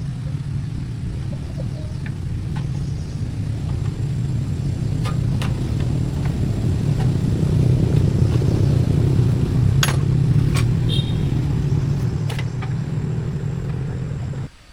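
Tractor engine running steadily with a low rumble, growing a little louder around the middle, with a few light clicks over it; the sound cuts off suddenly near the end.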